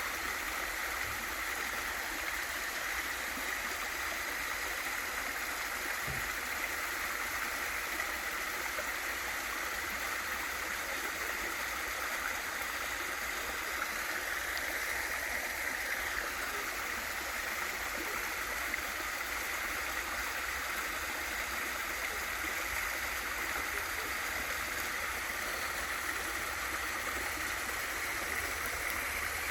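Waterfall and valley stream water rushing and splashing over rocks, a steady even noise with no change in level.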